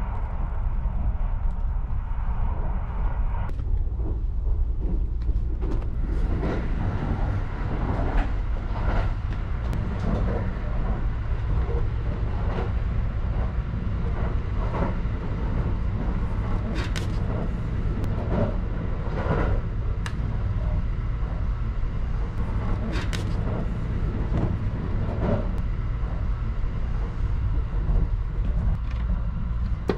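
Kintetsu Hinotori limited express train running, heard inside the carriage: a steady low rumble with scattered knocks and clatters.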